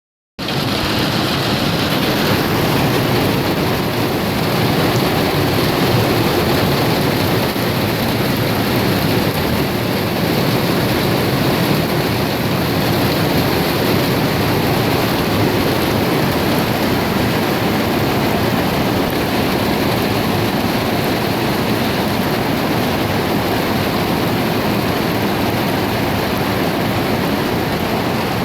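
Rain falling steadily, an even unbroken wash of sound.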